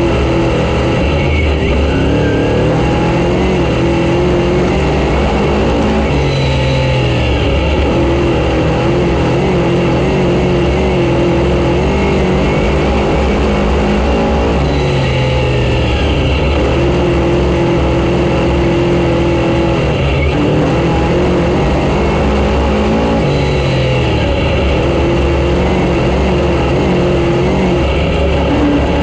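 Race car engine running hard on track, its pitch dropping off and climbing back up about every eight or nine seconds as it lifts for the corners and accelerates down the straights.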